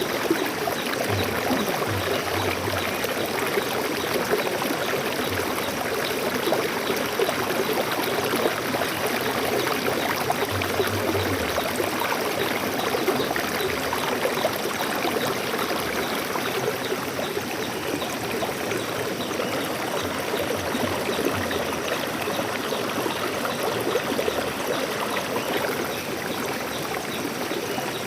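Shallow forest stream flowing and babbling over rocks, a steady rushing with fine, quick gurgles.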